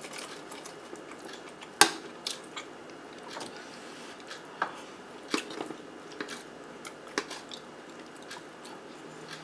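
Close-up eating sounds: biting into and chewing a zucchini boat topped with ground turkey, sauce and melted cheese, with scattered short wet mouth clicks; one sharp click stands out about two seconds in.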